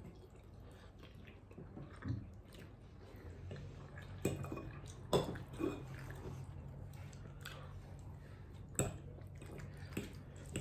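Close-up chewing of a mouthful of pasta all'amatriciana, with a few sharp clinks of a metal fork against the plate as pasta is scooped up; the loudest clink is about five seconds in. A faint steady low hum lies underneath.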